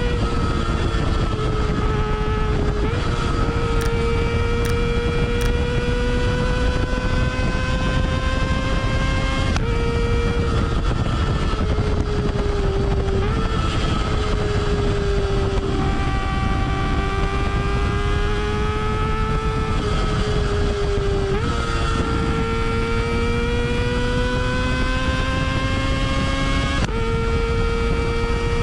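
Kawasaki ZX25R's 250 cc inline-four running at high revs through a Yoshimura R77-style exhaust while being ridden. The engine note climbs slowly and then steps down or up suddenly every few seconds with the gear changes.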